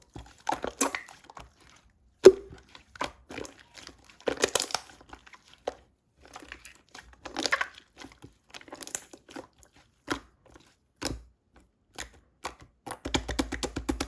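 Slime being squeezed, pressed and pulled apart by hand: irregular sticky crackles and pops in short bursts, with one sharp click about two seconds in and a quick run of dense crackling near the end.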